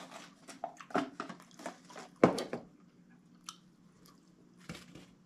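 A person chewing and biting food close to the microphone: short wet mouth clicks and smacks, denser and louder through the first half, then thinning to faint ticks.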